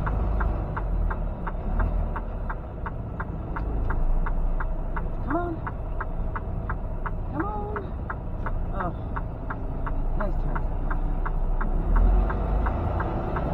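Semi truck's turn signal clicking steadily, about three clicks a second, over the low rumble of the truck's engine heard in the cab; the engine swells briefly near the end.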